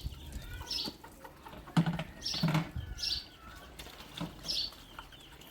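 A bird chirping short, repeated calls about once a second, with two dull knocks near the middle.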